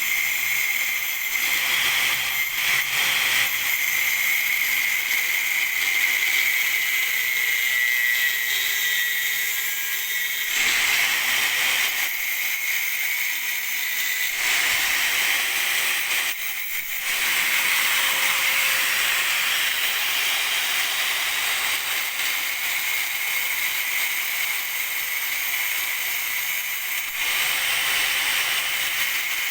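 A grinder grinding a car's metal exhaust pipe, giving a steady, loud, high hissing whine. The sound briefly drops twice, about ten and sixteen seconds in, then carries on.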